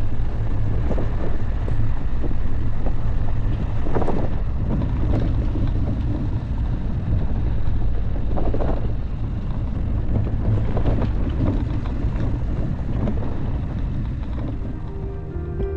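Dacia Duster driving off-road: a steady low rumble of engine and tyres with several knocks and thumps from the rough ground, the strongest about four and nine seconds in. Wind buffets the microphone.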